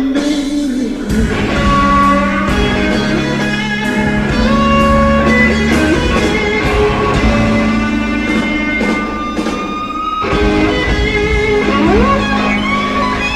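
Electric blues guitar played with a band: sustained lead notes over bass and drums, with a note bent upward near the end.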